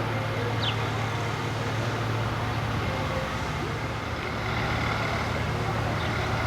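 A motor vehicle engine running steadily, a low even hum with no revving.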